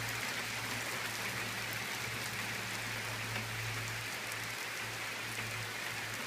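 Steady rain falling on a wet street and parked cars, an even hiss that does not let up.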